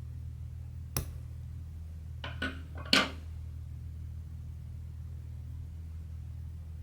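A few short clicks and taps of small hard objects being handled, the loudest about three seconds in, over a steady low hum.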